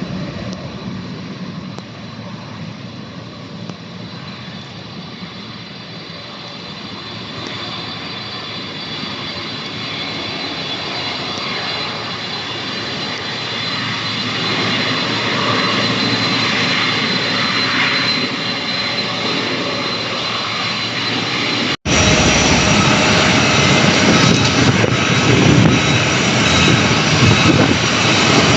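Airliner engines running with a steady high whine over a broad rush, growing gradually louder as the aircraft comes closer. About three-quarters of the way through the sound drops out for an instant and resumes louder.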